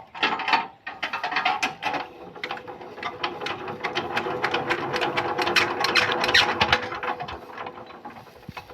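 Power tiller engine being cranked for starting: rapid mechanical clicking and ratcheting that builds up for several seconds, then slows and fades near the end.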